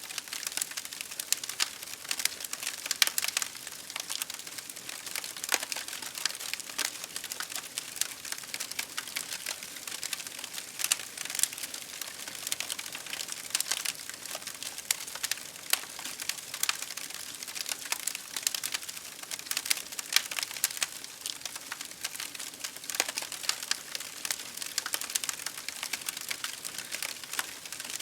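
Campfire crackling, with dense, irregular snaps and pops over a steady hiss of rain.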